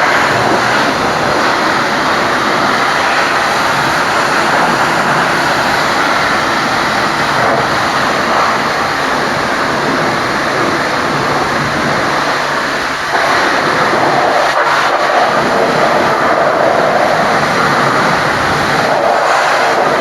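High-pressure washer jet spraying water onto a Scania truck, a loud steady hiss of spray, with a brief dip about thirteen seconds in before it carries on slightly louder.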